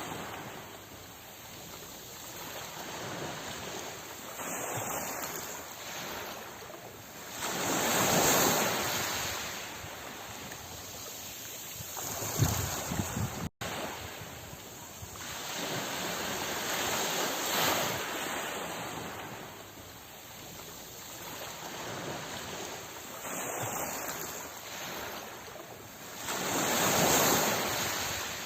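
Sea surf: waves washing in and drawing back, the rushing noise swelling and fading every few seconds, with a little wind. There is a brief dropout about halfway through.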